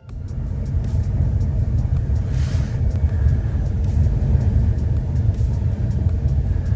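Steady low rumble of a vehicle on the road as picked up by a dashcam, with a brief rush of noise about two and a half seconds in.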